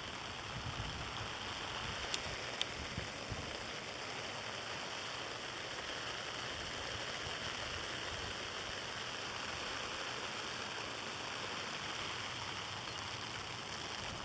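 Sleet and graupel falling steadily, an even hiss with a few sharp ticks a couple of seconds in.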